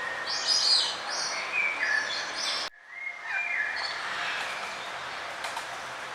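Birds chirping and singing in short warbled phrases over a steady background hiss. A little under halfway through, the sound cuts out abruptly for a moment before more birdsong resumes.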